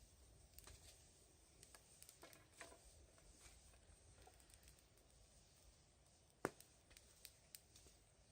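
Faint, sparse crackling of a wood fire: scattered small pops, with one sharper, louder pop about six and a half seconds in.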